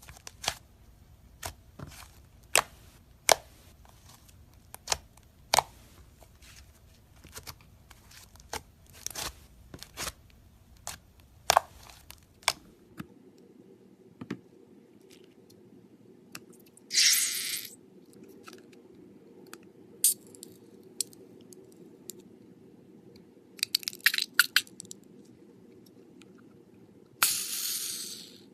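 Slime-filled stress balls being cut with a blade: a run of sharp clicks and snips, one to two a second, for the first half. After a change in the background, a few short crackling, tearing bursts follow, the last one the longest.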